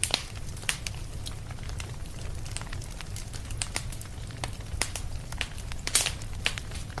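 Fireplace fire crackling, with irregular sharp pops, a louder one just before the six-second mark, over a steady low rumble.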